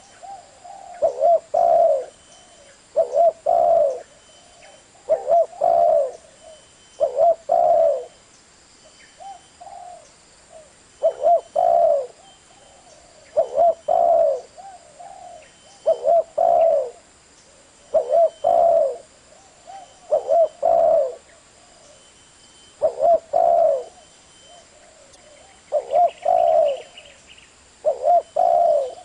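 Spotted dove cooing: short phrases of a few low, hoarse coos repeated about every two seconds.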